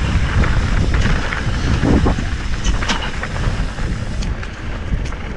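Wind rushing over the microphone and tyre rumble on a dirt trail during a mountain-bike ride, with a few sharp knocks, the clearest about three seconds in.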